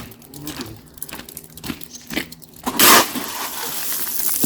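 Shovel working gravel: scattered crunching scrapes, then one loud gravelly rush a little past the middle as a shovelful is thrown down, followed by a steady rustling hiss.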